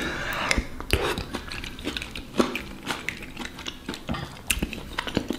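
Close-up chewing of a mouthful of risotto, with scattered small wet clicks from the mouth, and a metal spoon clinking against the ceramic bowl.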